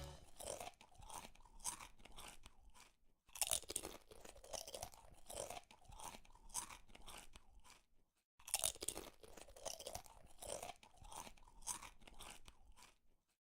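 Faint crunching: three runs of irregular crunches about half a second apart, each run ending in an abrupt cut.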